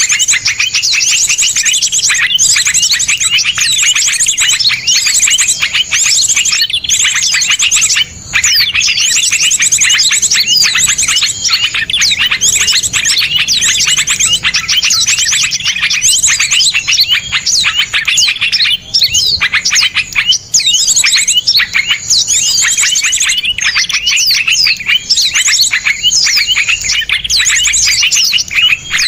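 Small songbirds chirping and trilling densely, with fast, sharp repeated notes layered over one another. This is a birdsong training recording of harsh, rapid "tembakan" calls. The chirping breaks off briefly about eight seconds in.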